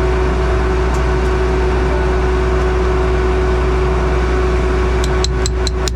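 Engine running steadily at a constant speed, a low drone with a steady whine over it. About five seconds in comes a quick run of sharp clicks, several a second.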